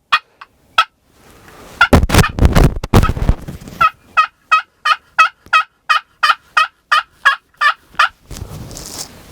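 Wild turkey calling: a loud, rough burst about two seconds in, then a run of about a dozen evenly spaced yelps, about three a second.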